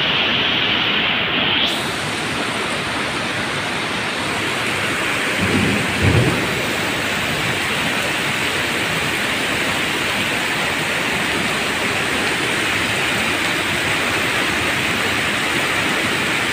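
Heavy rain pouring down in a steady, loud hiss, with water gushing from drain pipes into a concrete gutter. A brief low thump comes about six seconds in.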